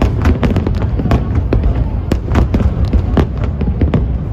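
Aerial fireworks display in full barrage: sharp bangs come several a second, one on top of the next, over a continuous low rumble of bursts.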